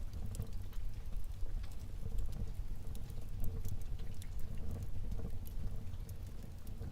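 Wood fire burning in a fireplace: a low steady rumble of flame with many small, irregular crackles and pops.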